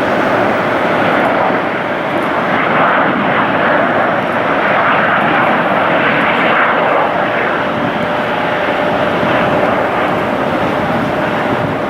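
Jet airliner engines running, a loud, steady roar with a thin steady whine through it.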